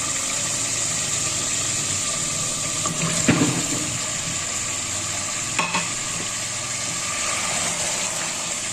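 Meat masala sizzling and frying in an open pressure cooker on high heat, stirred with a wooden spoon. About three seconds in there is a loud thud as chunks of raw potato are tipped in, then a couple of short metallic clinks against the pot.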